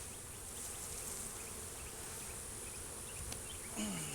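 Honey bees buzzing steadily around an open hive, with a few faint ticks.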